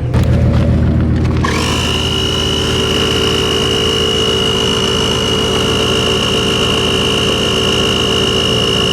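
Corded Husky portable tire inflator running, its electric motor and pump making a steady buzzing hum. About a second and a half in, a whine rises and then holds at one pitch.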